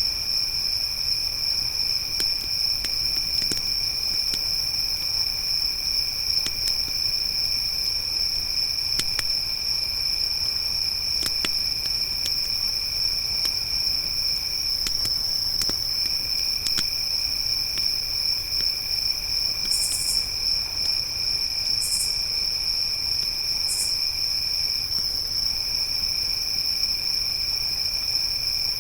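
Crickets trilling steadily at a high pitch, with a second, lower trill that breaks off briefly twice. Sparse small crackles and pops from a wood campfire, and three short, higher buzzes about two-thirds of the way through.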